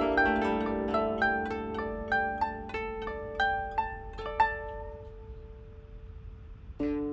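Two kotos playing a duet: a flowing run of plucked notes over ringing lower strings that thins out and dies down, then a louder group of plucked notes comes in near the end.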